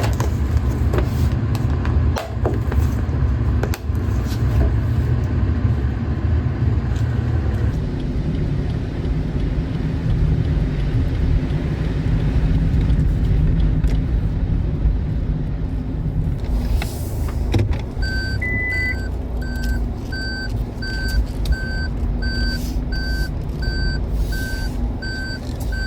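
Car cabin sound: steady engine and road rumble. Later a repeated electronic warning beep, a little over once a second, starts after one higher single beep.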